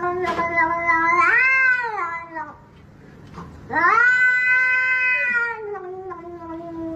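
A cat yowling in two long, drawn-out calls, each swelling up in pitch and then sliding down; the second starts a little past halfway and trails off at the end.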